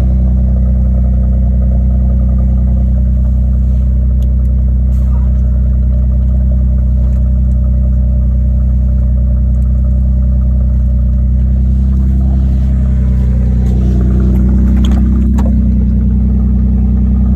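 Straight-piped 1998 Mercedes-Benz E320's V6 engine running at a steady, loud idle, its note rising slightly around twelve seconds in before settling again.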